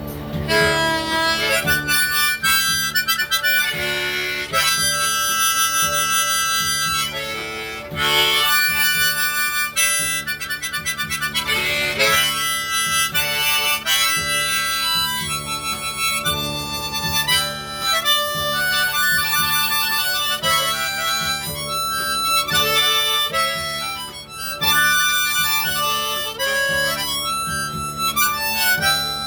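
Harmonica playing a melody of quickly changing notes, with brief breaths between phrases, in a folk-style song.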